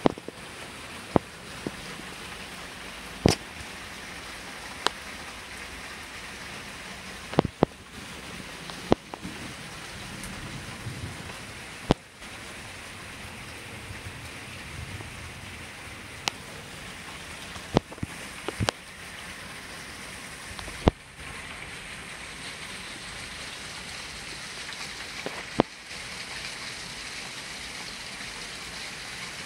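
Heavy rain pouring steadily in a thunderstorm, with a scattering of short, sharp taps.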